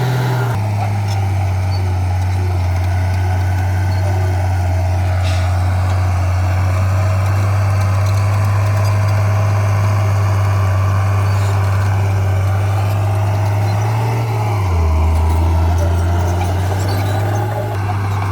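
Heavy diesel engine of an earthmoving machine running steadily with a deep hum. Its note drops lower for a couple of seconds about three-quarters of the way through, then comes back up.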